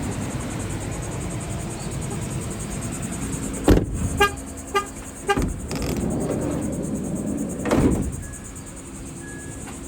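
Van door knocking shut or latching, followed by three short electronic warning chimes about half a second apart, then another door thump about 8 seconds in. Faint, evenly spaced high beeps follow near the end.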